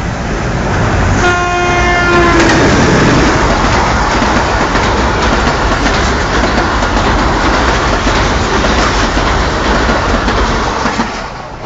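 A train's horn sounds once, about a second in, for about a second and a half, dropping slightly in pitch as it ends. Then the train passes close by: loud running noise of the coaches' wheels on the rails, which dies down near the end.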